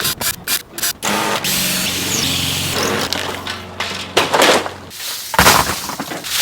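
A power tool's motor running steadily for about three and a half seconds, after a few sharp clicks and before a loud knock.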